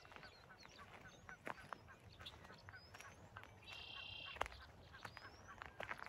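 Faint bird calls with scattered light clicks, among them one longer call lasting about half a second, a little before four seconds in.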